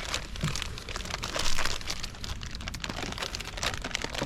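Irregular rustling, crinkling and scraping from hands working close to the microphone, with a louder scrape about a second and a half in.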